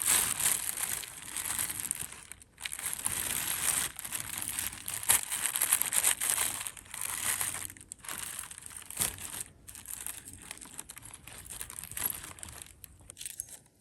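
Wrapping crinkling and rustling as hands unwrap a piece of jewelry and take it out, in irregular stretches with a few short pauses, quieter in the last few seconds.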